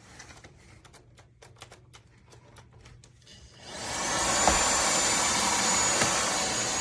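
A few faint clicks, then the INTETURE cordless stick vacuum's motor starts about three and a half seconds in. It spins up over about half a second and runs steadily with a high whine.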